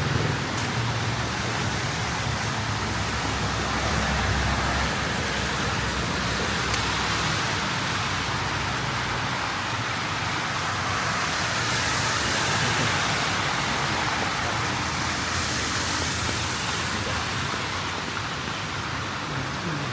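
Steady hiss of a wet, flooded city street with vehicle traffic; a low engine rumble from a passing vehicle sounds for the first five seconds or so and then drops away.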